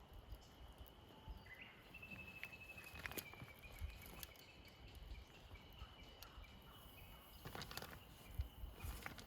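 Near silence: faint outdoor ambience with a thin steady high tone. A brief high whistle-like call comes about two seconds in, and a few light clicks near the end.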